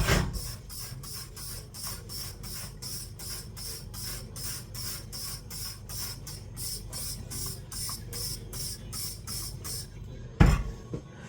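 Pressure cooker's weighted valve rocking and letting off steam in rapid, even hisses, about four a second, while the meat cooks under pressure. The hissing stops near the end, and a single knock follows, like a pot or lid being handled.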